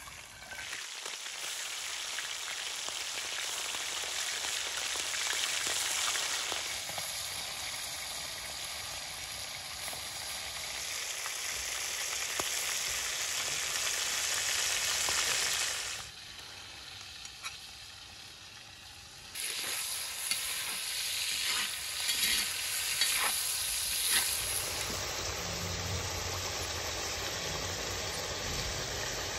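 Pieces of lamb testicle sizzling in hot oil in a wide pan over a wood fire. The sizzle starts as they go in, dips for a few seconds past the middle, then comes back with a few sharp clicks.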